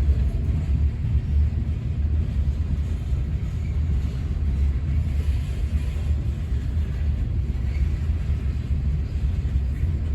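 Freight train rolling slowly past, a steady low rumble.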